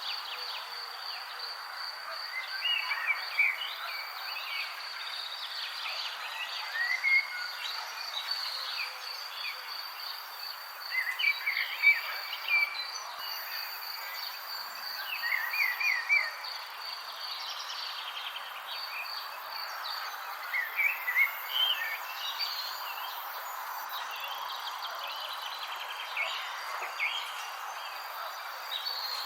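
Insects trilling in a steady, high, fast pulse over a soft background hiss, with birds chirping in short quick phrases every few seconds.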